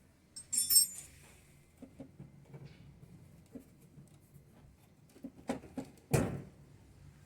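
A short jingle of small metal clinks about half a second in, then scattered light knocks, ending in two sharper knocks and a heavier thump near the end: metal parts or tools being handled and set down.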